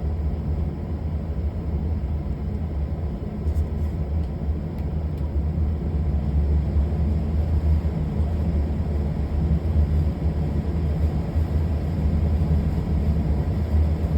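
Steady low rumble and hum, unchanging throughout.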